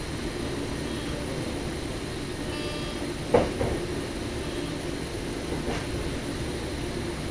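Running noise of a Sprinter commuter train on the move: a steady low rumble from the wheels and rails. A sharp clunk comes about three and a half seconds in, with a lighter one near six seconds.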